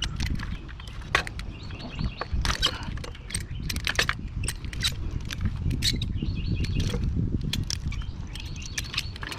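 Irregular sharp clicks and clatter of wiring connectors and plastic parts being handled and pulled off a window air conditioner's control board, over a steady low rumble.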